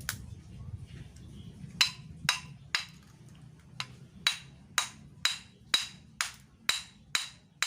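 Hammer blows on a refrigerator compressor's steel housing, struck about twice a second in a steady rhythm, each blow ringing briefly.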